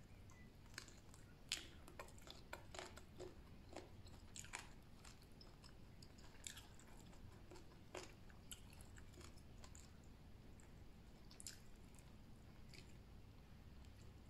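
Faint chewing of a piece of chicken eaten off the bone, with scattered small mouth clicks that come most thickly in the first five seconds.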